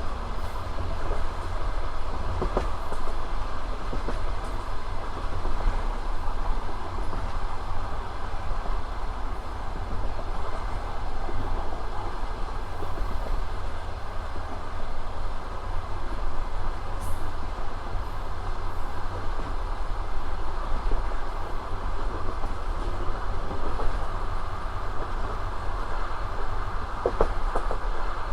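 Passenger train under way: a steady rumble of wheels on the rails, with a few faint clicks about two seconds in and again near the end.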